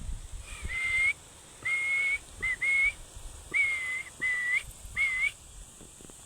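A series of seven short whistled notes at about the same pitch, some dipping and then rising at the end, in uneven groups with brief gaps.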